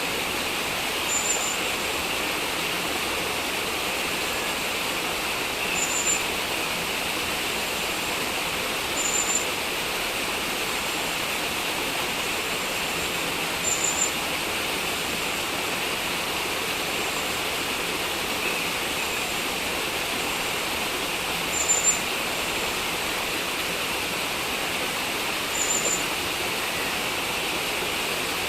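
Steady rush of heavy rain and running floodwater, with about half a dozen short, high chirps scattered through it.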